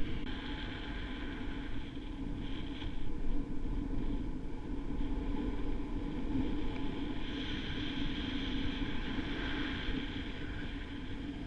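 Steady rush of wind over the microphone during a paraglider flight in strong wind.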